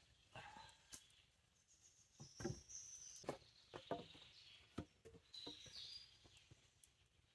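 Faint scattered knocks and clicks, about half a dozen, the loudest about two and a half seconds in, with short high bird chirps in the background.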